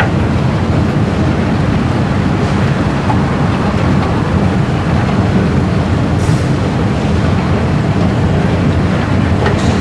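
Singapore MRT electric train running, a steady low rumble with no change in pace.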